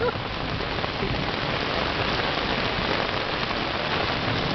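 Heavy rain falling steadily in a storm.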